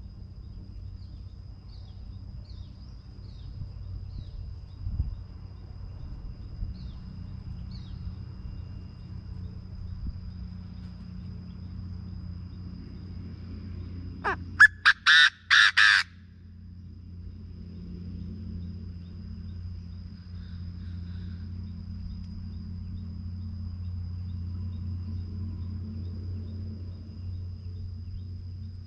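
Chinese francolin (field quail) giving one loud, harsh call of rapid notes lasting under two seconds about halfway through. Under it run a steady low rumble and a faint steady high tone, with a few faint chirps early on.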